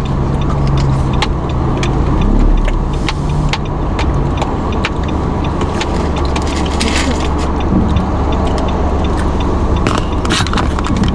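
Inside a moving car: steady engine and road rumble, with scattered small clicks and rattles throughout.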